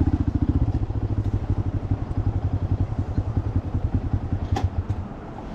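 Motorcycle engine running with a fast, even putter, easing off and getting quieter near the end. A single sharp click sounds about four and a half seconds in.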